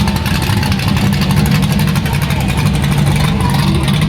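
A car engine idling steadily, with a fast, even exhaust pulse.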